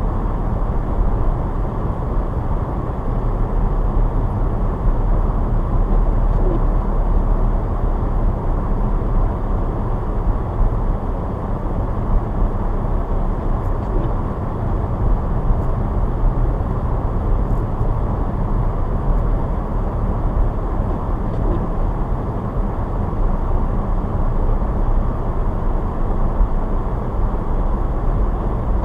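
Car driving on snowy roads: a steady rumble of road and engine noise, with a faint short squeak recurring about every seven or eight seconds.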